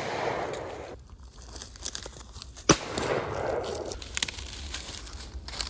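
Shotgun fired once about two and a half seconds in, a sharp report trailed by an echo lasting about a second; the echo of another shot fired just before fills the first second.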